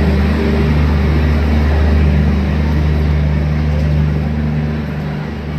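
Steady low hum from a train, with a few steady tones over it.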